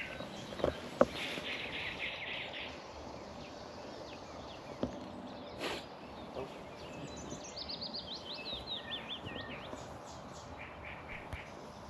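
Songbirds singing over a steady background hiss: a trill about a second in, and a run of chirps stepping downward in pitch about eight seconds in. A few sharp clicks are heard, the loudest about a second in.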